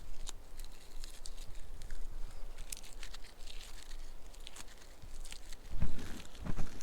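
Dry birch bark being peeled and torn off by hand, with scattered crackles and small tearing sounds, and two heavy thumps near the end.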